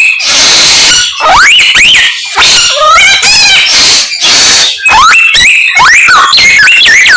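Samyong songbird singing a loud song packed with mimicked calls of other birds: a run of varied whistles, swooping rising and falling notes and quick trills, with short breaks between phrases.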